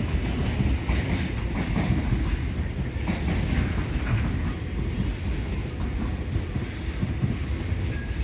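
Container freight train's wagons rolling past with a steady rumble and irregular clatter of wheels over rail joints, with a few brief high wheel squeals.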